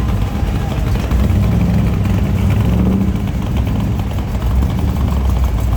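A car engine running steadily, a low rumble with no clear revving.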